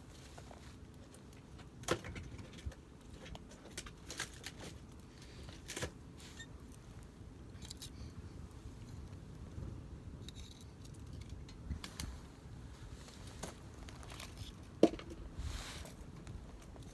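Wood campfire burning in a fire grill: a low steady rustle of flames with scattered sharp crackles and pops, the loudest pop near the end.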